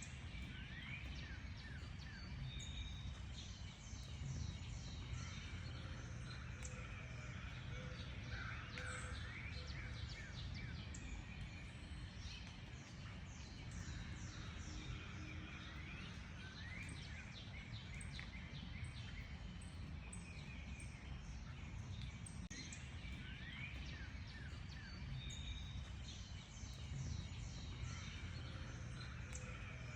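A chorus of small birds chirping and calling, with many short rapid chirps and quick rising whistles, over a low steady rumble.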